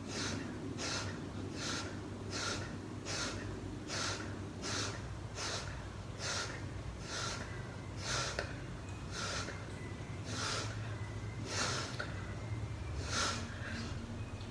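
A man breathing hard and rhythmically while doing push-ups, a quick breath about two to three times a second, each stroke of the push-up bringing a breath in or out.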